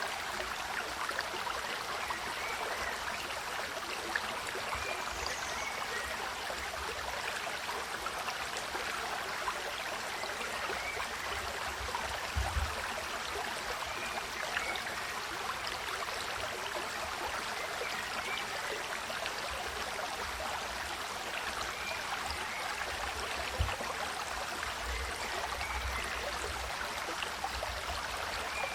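Running water rushing steadily, as from a stream or waterfall, with a couple of brief low thumps.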